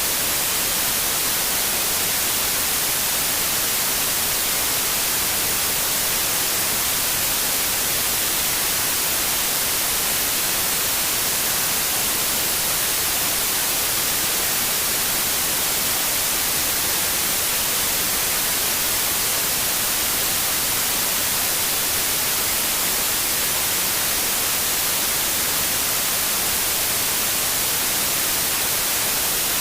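Steady synthetic white noise: an even hiss, unchanging throughout, brightest in the high end.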